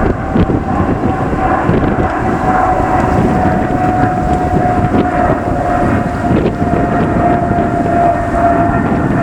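Jet airliner's engines passing at close range: a loud, steady rumble with a whine that slowly falls in pitch.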